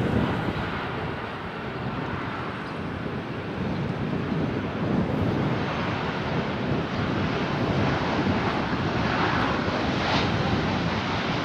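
Airliner's jet engines running as it passes, mixed with strong wind buffeting the microphone; the engine noise grows a little louder near the end.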